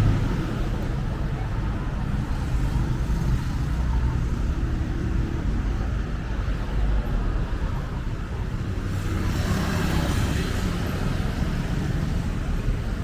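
Street traffic: a steady low rumble of motor vehicles running nearby, with a passing vehicle swelling about nine to eleven seconds in.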